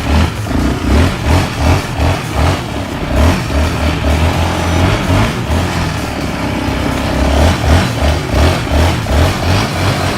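Small off-road vehicle engine running and revving, over a regular thumping dance-music beat.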